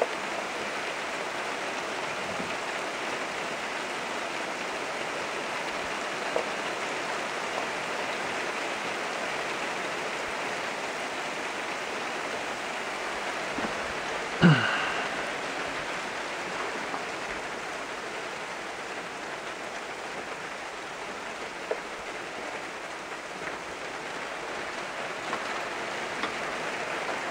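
Steady hiss of rain mixed with ice pellets falling on the ground and trees. About halfway through, a brief squeak that falls in pitch.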